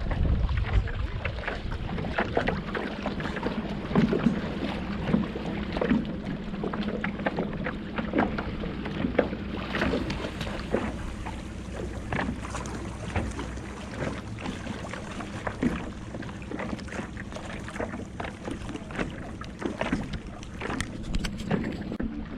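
Paddle strokes dipping and splashing in calm water, irregular small splashes and drips, over a steady low hum. Wind buffets the microphone in the first couple of seconds.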